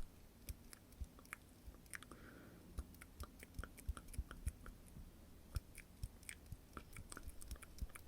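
Soft, irregular wet mouth clicks and smacks close to the microphone: ASMR mouth sounds, many small clicks a second with no steady rhythm.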